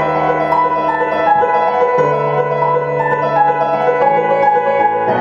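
Piano playing an instrumental passage of sustained chords under a melody line, with no singing; the chords change about two seconds in and again near the end.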